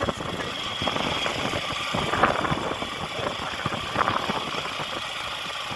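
A motor vehicle's engine running steadily at low speed, with a continuous rough, pulsing noise.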